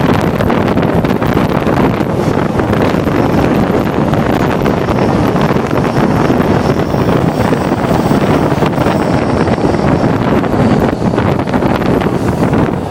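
EFVM passenger train running at speed: a loud, steady rumble of the moving train with wind buffeting the microphone. A faint high whine comes and goes in the middle.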